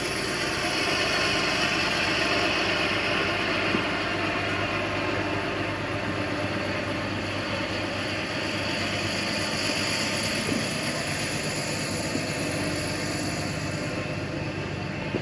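Tractor engine running steadily under load as it works over a dirt track.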